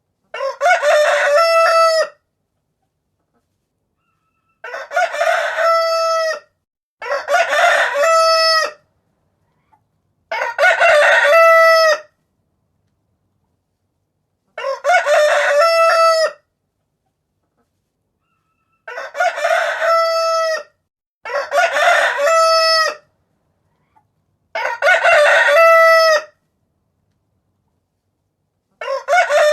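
Rooster crowing, about nine crows in a row, each nearly two seconds long and ending on a held note, with silent gaps of one to four seconds between them.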